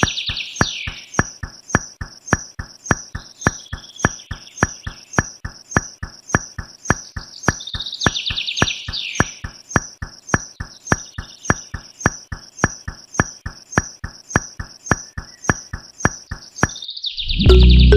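Background track of a steady clicking beat, about three clicks a second, with bursts of high chirping trills every few seconds like insect or bird calls.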